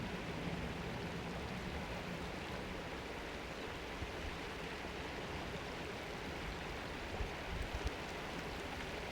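Steady rush of flowing stream water, with a few soft low bumps near the end.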